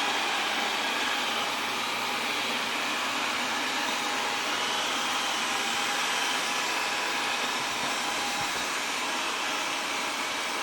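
Wyze robot vacuum cleaner running steadily, its suction fan and brushes giving an even whir that is not too loud.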